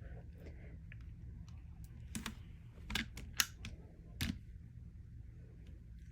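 A handful of sharp clicks and taps, about five within two seconds near the middle, over a steady low hum.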